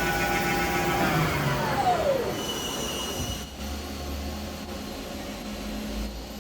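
Mori Seiki SL-5 CNC lathe whining steadily; about a second in, the whine falls in pitch and dies away as the machine spins down. A short high tone follows, then a low steady hum.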